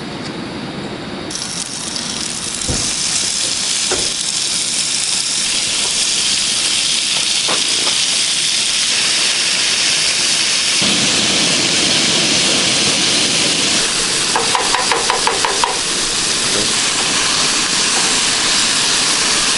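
Steak sizzling loudly in a hot pan, a steady hiss that swells up about a second in. A quick run of about eight light clicks comes near the end.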